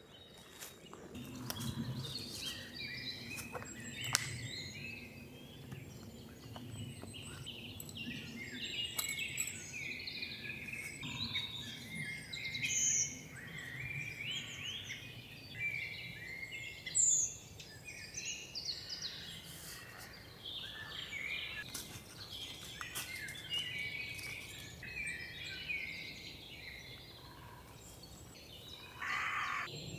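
Small birds chirping and calling continuously, many short overlapping notes, over a faint steady low rumble, with a few sharp clicks such as one about four seconds in.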